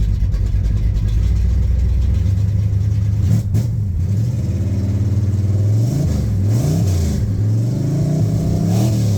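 1965 Chevelle's 350 small-block V8 with a big roller cam, run cold with no choke, idling and then revved in a string of throttle blips that rise and fall from about halfway on. The engine is still very cold and shows a little hesitation as it revs.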